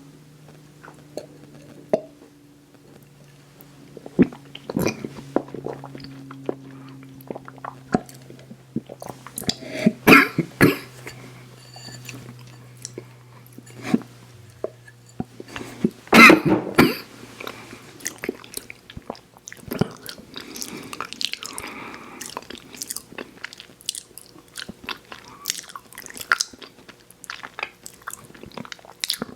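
Close-miked ASMR eating sounds: a person biting and chewing sweets, with many small wet mouth clicks. Two louder bites come about ten seconds in and again about sixteen seconds in.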